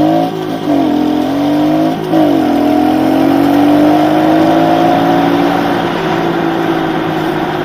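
Kawasaki KLX110 pit bike's small single-cylinder four-stroke engine running under way, its revs rising and dipping twice with the throttle in the first two seconds, then climbing steadily as it pulls and easing off slowly near the end.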